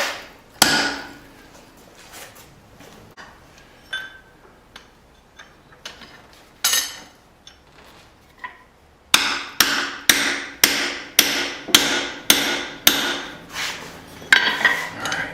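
Cross-peen hammer striking hot steel on an anvil, widening a small hatchet head. There is one blow near the start and a few lighter, scattered taps, then from about nine seconds in a steady run of blows, roughly two a second, each with a short metallic ring.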